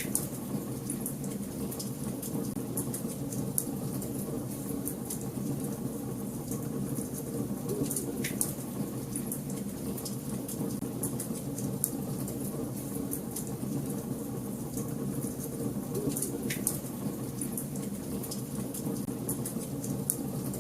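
Wood fire burning in a fireplace: a steady low rush of flames with constant small crackles, and two sharper pops, about eight seconds in and again about sixteen seconds in.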